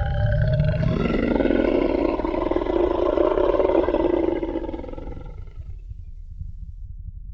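Movie-style Tyrannosaurus rex roar sound effect: a long, deep, rasping roar that swells about a second in and fades out around five seconds in, leaving a low rumble.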